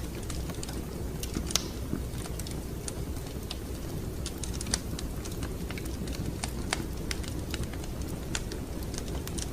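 Wood fire crackling in a fireplace: irregular sharp pops and snaps over a steady low rumble of the flames, with louder pops about a second and a half in and near the middle.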